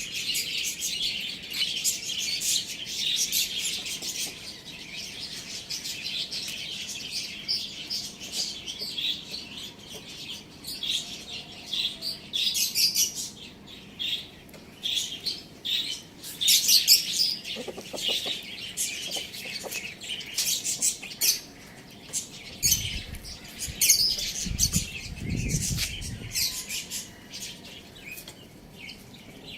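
Many small cage birds chirping continuously in quick, high twitters. A low rumble runs through the last few seconds.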